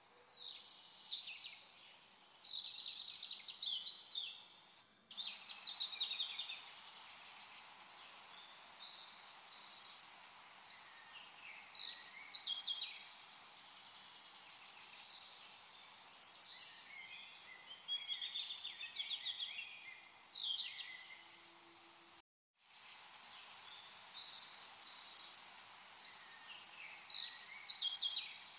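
Birds singing: several bursts of quick, high, falling chirps every few seconds over a steady background hiss. The sound drops out for a moment about two-thirds of the way through.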